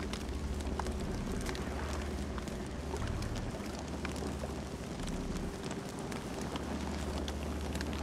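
Campfire burning: scattered sharp crackles and pops over a steady low rumble of the flames.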